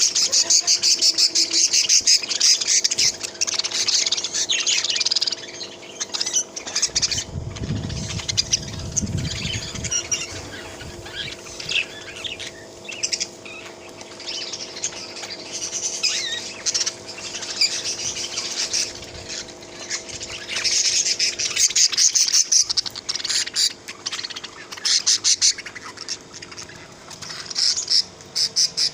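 A flock of small pet birds chirping and chattering in quick, high bursts. A low rumble comes in about seven seconds in and lasts a few seconds.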